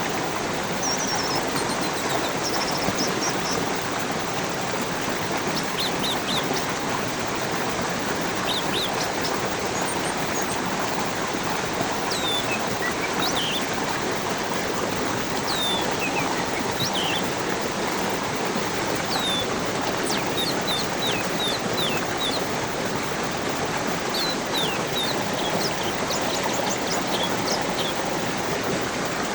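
Water rushing steadily in a stream, with small birds chirping over it: many short, high calls, several sweeping down in pitch.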